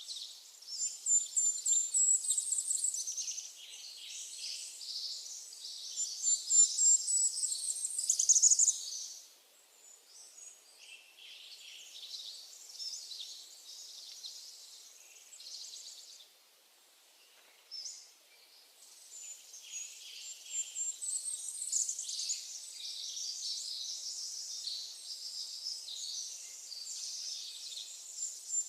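Songbirds singing: dense high chirps and quick rising trills, busy for the first few seconds, thinning to a quieter lull midway, then picking up again.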